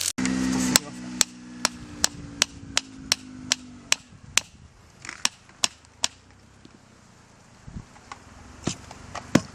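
About a dozen sharp, evenly spaced knocks, roughly two and a half a second, like blows of a tool or knife. They stop about six seconds in. A low steady hum runs under the first few seconds.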